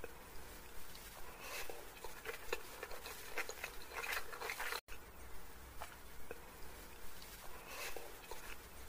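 Close-miked chewing of a mouthful of chow mein noodles: a run of small wet mouth clicks and smacks, busiest in the middle. The sound cuts out for an instant about five seconds in.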